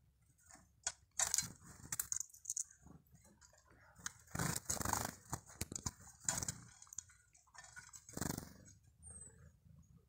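Birds landing on and feeding at a seed-covered wooden stump: several irregular bursts of scuffling and sharp clicking.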